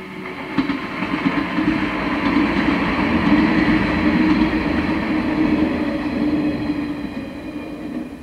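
A train passing by on the line: the running noise of its wheels on the rails grows over the first couple of seconds, stays loud through the middle, then fades near the end.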